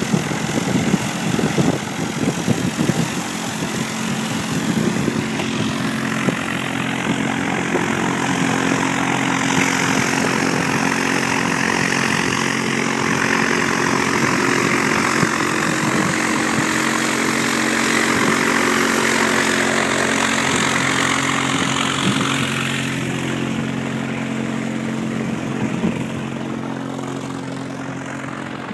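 Propeller-driven light aircraft's piston engine running steadily. It grows louder several seconds in and fades over the last few seconds.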